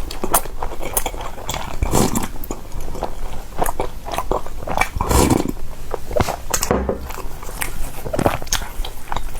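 A person biting and chewing food close to the microphone: irregular wet clicks, smacks and short crunchy bursts of a mukbang-style eating close-up.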